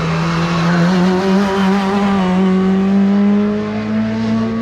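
Hillclimb race car's engine held at high revs under load, one strong pitched note that creeps steadily higher, with a small step up about a second in.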